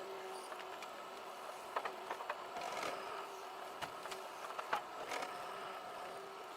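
Forestry machine's engine running steadily at a distance, with scattered light clicks and knocks through it.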